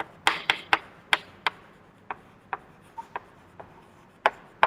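Handwriting strokes: a string of about a dozen short, sharp taps and scrapes, irregularly spaced, as words are written out.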